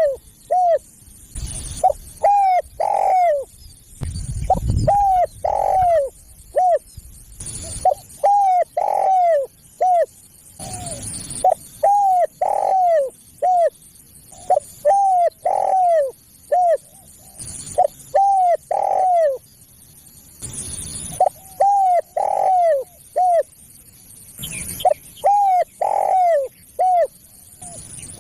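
Spotted dove cooing repeatedly: phrases of three or four coos, each note arching down in pitch, repeated about every three seconds. A few brief low rumbles of noise fall between the phrases.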